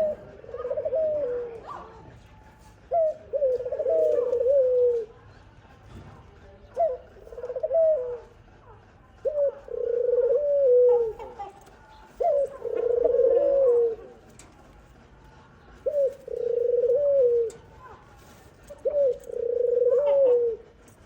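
A dove cooing in a repeated rhythm. It gives about seven low phrases, each a short note, then a longer held coo, then a falling end note, coming roughly every three seconds.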